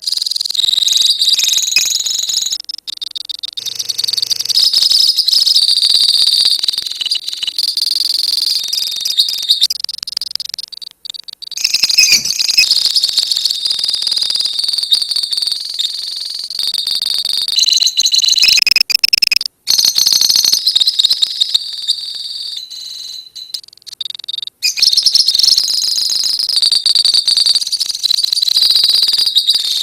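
A colony of lovebirds chirping and chattering in rapid, high-pitched trills, the long 'ngekek' trill, with a few brief breaks.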